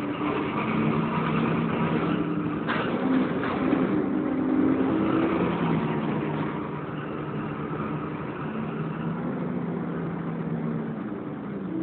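Volvo B10BLE bus's six-cylinder diesel engine running under way, heard from inside the bus, its note shifting up and down in steps over steady road noise. A single knock about three seconds in.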